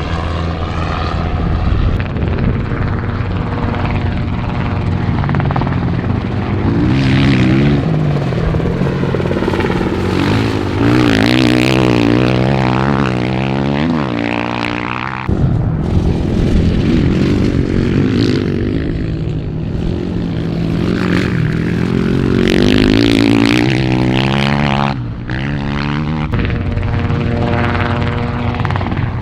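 Dirt bike engine running hard, its pitch rising and falling again and again as it revs and shifts. The sound breaks off sharply and resumes about fifteen seconds in and again near twenty-five seconds.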